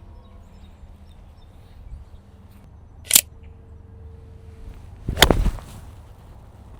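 Golf clubs striking balls off the tee: two sharp cracks about two seconds apart, the second louder and heavier. The second is the golfer's 4-iron tee shot, which he says he didn't hit well.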